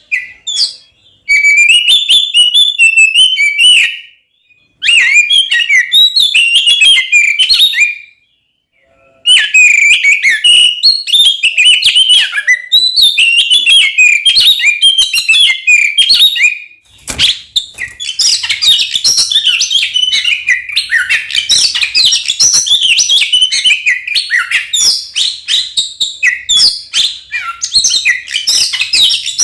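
Oriental magpie-robin (kacer) singing a loud, rapid, varied run of chirps and whistles in a combative 'fighting' style. The song breaks off briefly twice, about four and eight seconds in, then runs on.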